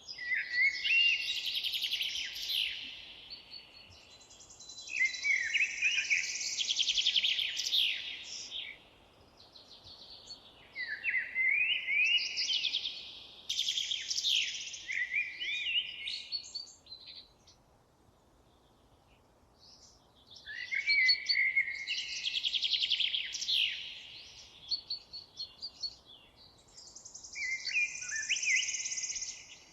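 A songbird singing: about six phrases of rapid, high, sweeping warbles and trills, each two to three seconds long and separated by short pauses, with a longer pause around the middle. A faint steady hiss of background noise lies under the song.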